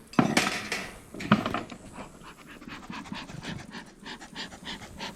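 Beekeeper's smoker bellows being squeezed over and over, a series of breathy puffs of air, with two louder puffs in the first second and a quicker run of softer puffs later on. Little or no smoke is coming out of the smoker.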